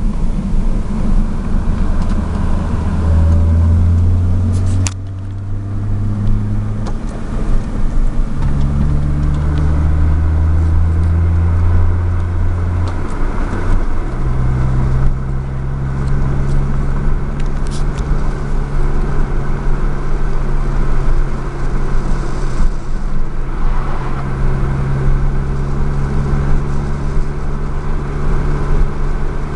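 Hyundai Tiburon running, its low drone stepping up and down in pitch several times in the first half and then holding steady, with a sharp click about five seconds in. This is a car noise the owner cannot identify.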